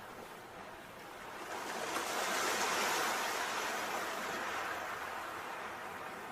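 Sea waves: one wave swells up about a second in, is loudest around two to three seconds in, then washes out slowly.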